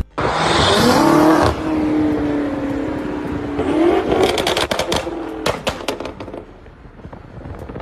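BMW M5 CS's twin-turbo V8 revving up hard, holding, and revving up again, then a run of sharp exhaust pops and crackles as the throttle closes and the sound dies away.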